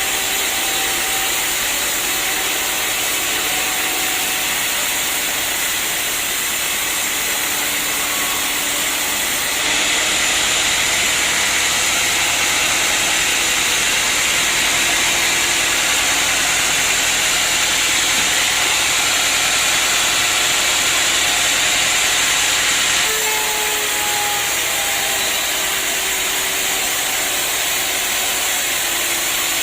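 Sawmill machinery running with a steady hissing noise. It grows louder from about ten seconds in and drops back about twenty-three seconds in.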